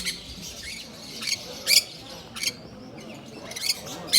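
Caged aviary birds giving a string of short, sharp, high-pitched calls, about six in four seconds.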